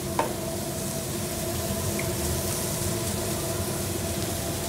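Food sizzling on a hot flat-top teppanyaki griddle, a steady hiss over a low steady hum, with one brief clack about a quarter of a second in.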